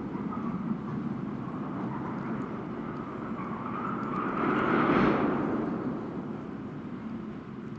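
Freight train rolling past on the rails: a steady rumble of wheels and wagons that swells to its loudest about five seconds in, then eases.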